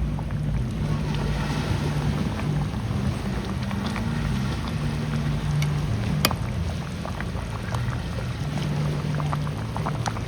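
Wind buffeting the microphone at the seashore, a fluctuating low rumble over a steady rush, with a few small clicks and one sharp click about six seconds in.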